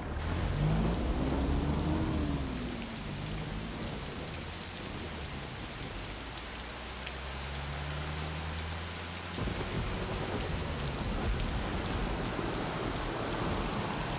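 Heavy rain pouring down, with a car engine humming low underneath. The hum rises and falls in pitch in the first few seconds and cuts off about nine and a half seconds in.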